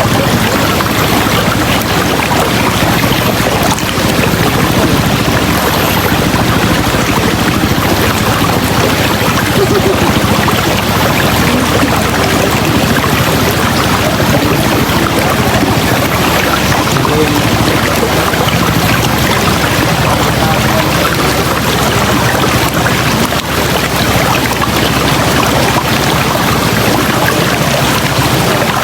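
River water rushing steadily over its bed, a loud, even wash of flowing water. Faint high chirps recur about every second and a half above it.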